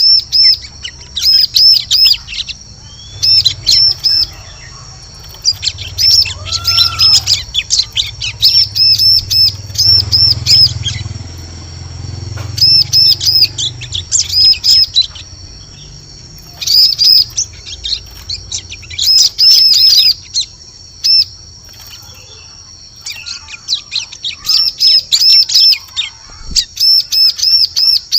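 Bar-winged prinia (ciblek) calling: loud, high-pitched chirps in quick runs of three to six notes, repeated again and again with short pauses between runs, played as a lure call.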